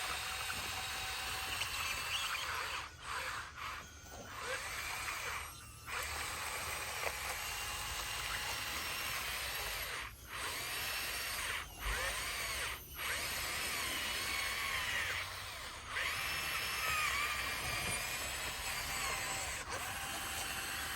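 Bulldozer working: a steady mechanical din with high, wavering whines and squeals over it, with several short dips in level.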